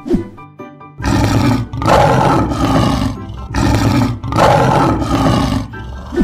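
A lion roaring: about four long, rasping roars back to back, starting about a second in and stopping shortly before the end.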